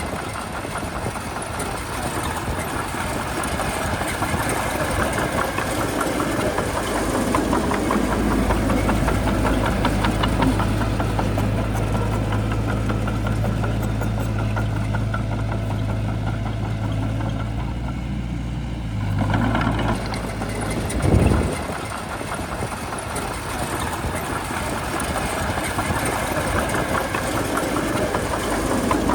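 Heavy diesel engine of a Shantui bulldozer running steadily, with one short louder burst about two-thirds of the way through.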